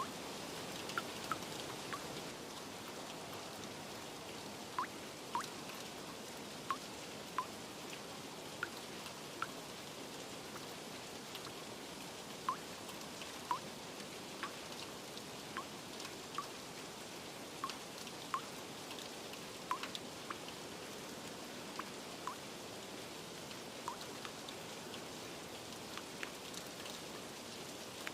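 Steady rain falling, with single drops plinking at irregular intervals, roughly one every second.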